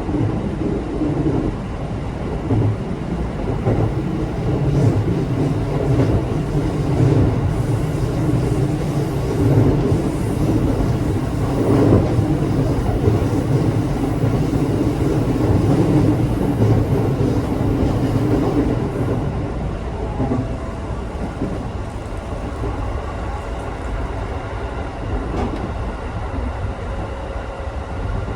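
Running noise of a local electric train heard from inside the passenger car: a steady rumble of wheels on rail and the car's machinery. It grows a little louder through the middle and eases off in the last third.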